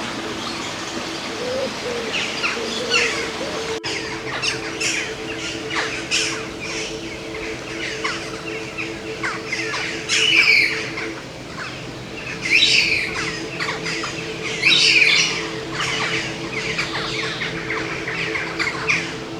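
Captive birds calling: many rapid chirps with a few louder, harsher squawks about halfway through and again near three-quarters of the way. A steady low hum runs underneath.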